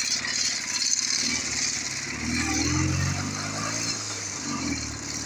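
Ural motorcycle's flat-twin engine running; about two seconds in the engine note swells and rises in pitch as it is revved, then drops back near the end.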